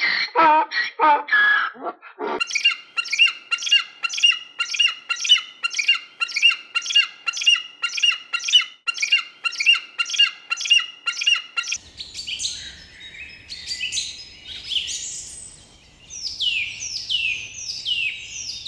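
Animal calls in three stretches: about two seconds of rapid low calls, then a bird calling in a long run of quick, evenly spaced notes, about two a second. About twelve seconds in, a different bird's falling chirps follow over faint outdoor background noise.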